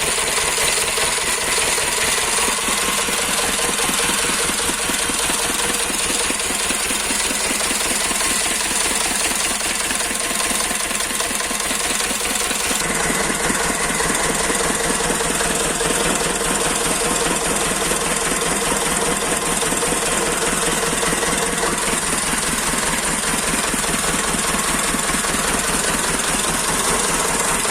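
8 hp single-cylinder diesel engine running steadily, its firing strokes making a rapid, even beat.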